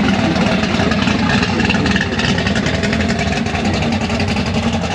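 Car engine idling steadily with an even, rapid firing beat.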